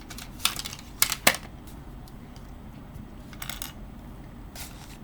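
A pen and small drawing tools handled on a desk: five short, sharp clicks and taps, the loudest two close together about a second in.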